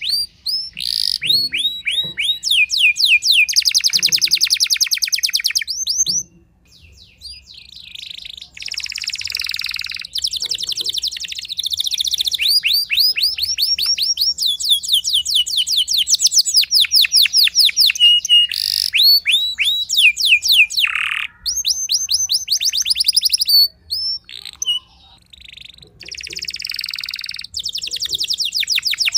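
Domestic canary singing long, fast trills of rapidly repeated high, sweeping notes, phrase after phrase, with a couple of short breaks.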